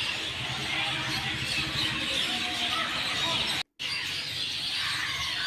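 Many birds chirping and calling together over a steady outdoor background, cutting out for a moment about two-thirds of the way through.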